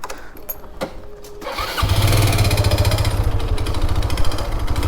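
Motorcycle engine starting a little under two seconds in, then running steadily with a low, even pulse. A few light clicks come before it starts.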